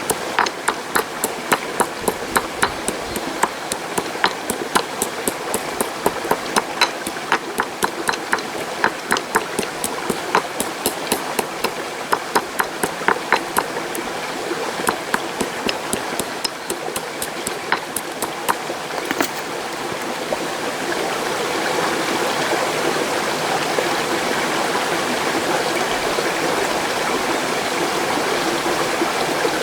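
A mountain stream rushing steadily, with a run of sharp, uneven knocks or taps, about two or three a second, that stop about two-thirds of the way through.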